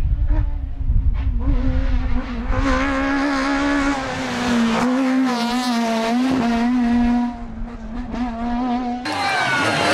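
Rally kit car engine at high revs, first under a rumble of noise, then held at a nearly steady pitch with slight wavering for several seconds. Near the end, after a cut, a car engine accelerates with a rising pitch.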